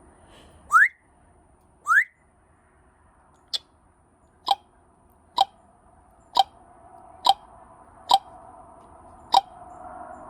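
Congo African grey parrot giving three short rising whistles, then a run of sharp clicking pops about once a second.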